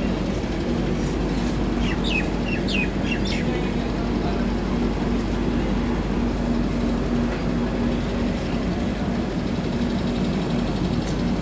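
Passenger train running: the steady rumble and hum of a moving railway carriage. A few short high chirps come about two to three seconds in.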